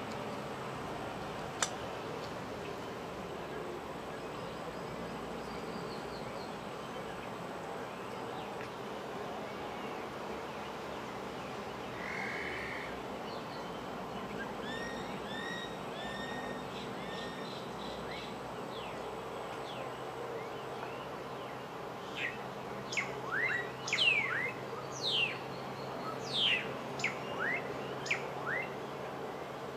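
Wild birds calling over a steady outdoor background hiss. A soft run of short repeated notes comes midway, then a string of loud, sharp whistled sweeps near the end.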